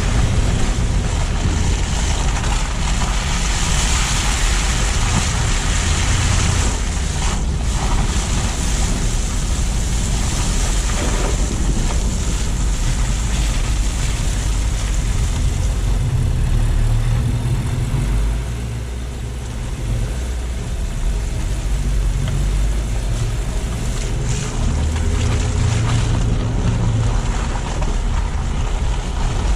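Car driving on snowy, wet city streets: steady tyre and road hiss with wind buffeting the microphone over a low engine rumble. The noise eases briefly about two-thirds of the way through.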